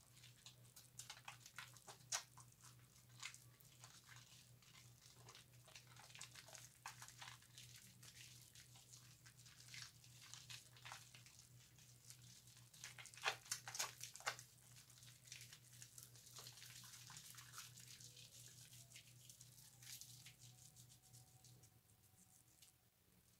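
Wet bar soap being rubbed into a lather, with a run of faint, irregular wet crackles and clicks from the foam, busiest about halfway through, over a steady low hum.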